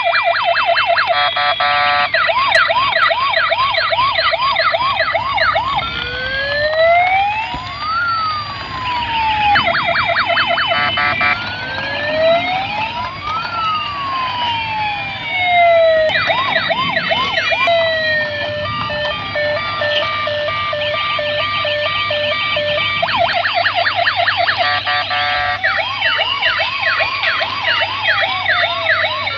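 Two toy police cars sounding their electronic sirens together, the patterns overlapping and switching between a rapid yelp, a slow rising-and-falling wail and steady beeping tones.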